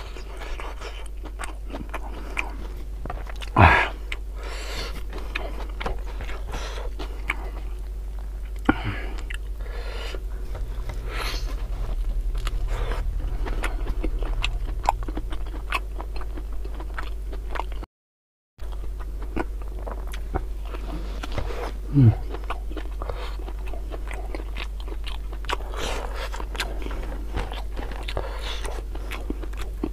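Close-miked eating: a person biting and chewing spiced beef tongue and rice, with wet mouth sounds, smacks and occasional crunches, over a steady low hum. The sound cuts out completely for a moment about 18 seconds in.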